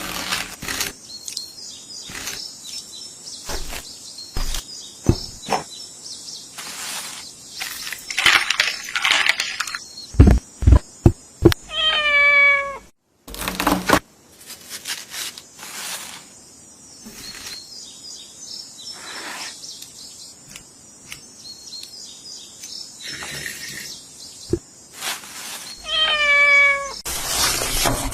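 A domestic cat meows twice, each a single call of about a second, over a run of short knocks and clicks from food being prepared.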